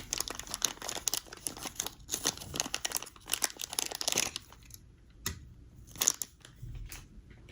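Plastic packaging bag crinkling and rustling as a diecast toy car is pulled out of it. The crackling is dense and continuous for about four and a half seconds, then thins to a few scattered crackles.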